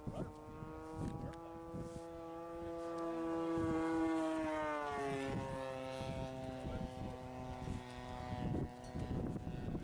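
Engine of a radio-controlled model warbird flying past: one steady buzzing note that swells to its loudest a few seconds in and drops in pitch as the plane passes, then fades. Wind buffets the microphone throughout.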